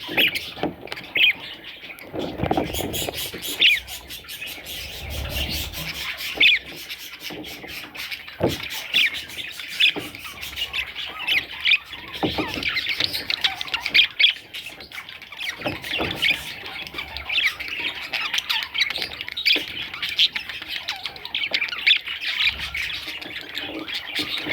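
Budgerigars chattering in a dense run of short squawks and chirps, one call after another without a break.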